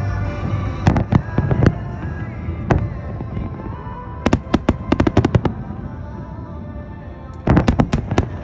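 Fireworks going off in clusters of sharp cracks and bangs: a few about a second in, a rapid run of about a dozen around the middle, and another quick burst near the end. Music plays underneath.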